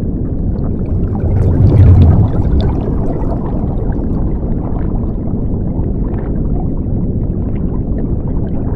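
Rushing water, a steady loud rush heavy in the low end, swelling louder about two seconds in.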